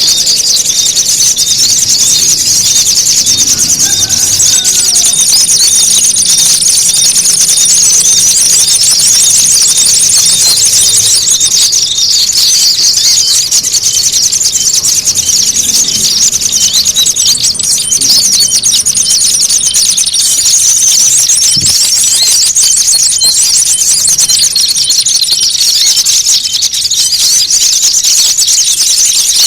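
Dense, nonstop rapid high-pitched chirping and twittering of many small birds at once, a loud bird-lure recording of agitated, squabbling small birds. A thin steady high tone comes and goes over the chirping.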